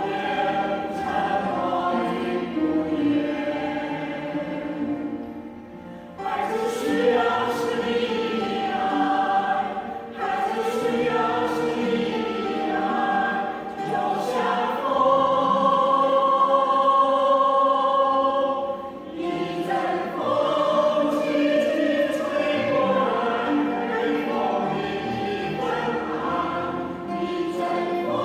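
Choir singing in slow, sustained phrases, with short breaks between the phrases.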